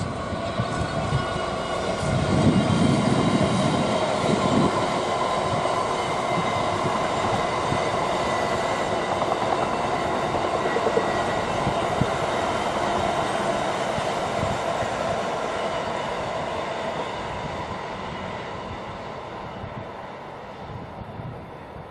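Freight train hauled by a Class 66 diesel locomotive passing close by, with steady rolling noise of the wagons and a thin ringing from the wheels. It is loudest about two to five seconds in and fades away near the end.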